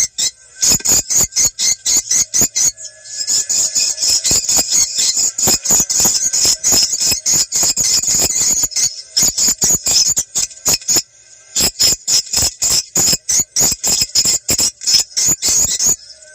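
Recorded edible-nest swiftlet calls played as a lure for testing a site for swiftlet farming. The calls come as a fast, continuous series of high, sharp chirping clicks, several a second, breaking off briefly a few times.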